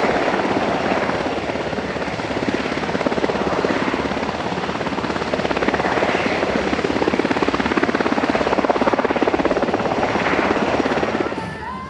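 US Coast Guard MH-60T Jayhawk helicopter flying close by, with a fast, even rotor beat over turbine noise. The loudness swells and eases a few times, then drops sharply just before the end.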